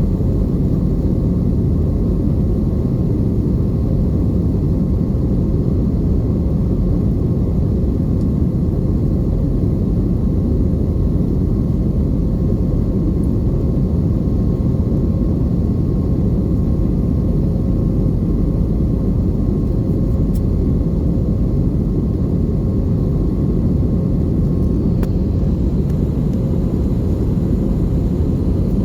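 Airbus A320 cabin noise: a steady low rumble of the jet engines and airflow, with a faint steady hum above it.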